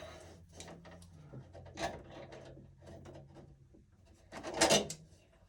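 Hands working wires and a breaker inside an electrical panel: scattered light clicks and rubbing, with a louder scrape about four and a half seconds in. A faint steady hum runs under the first four seconds.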